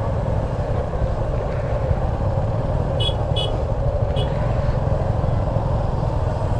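Motorcycle running at low speed in traffic, a steady rumble with wind on the helmet microphone. Three short high beeps, like a vehicle horn, come about three to four seconds in.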